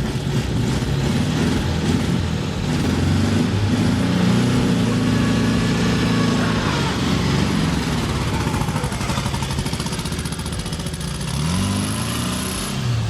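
Volkswagen Beetle's air-cooled flat-four engine running after being cranked, with its revs rising and falling and a rev climbing near the end.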